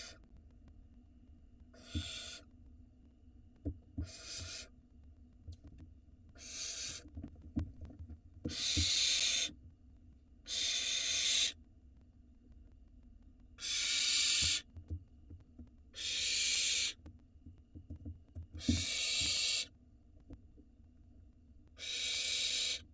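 Barn owl nestlings giving their hissing begging calls: about nine long, rasping hisses, each half a second to a second and a half, a couple of seconds apart. Soft low knocks come between the calls.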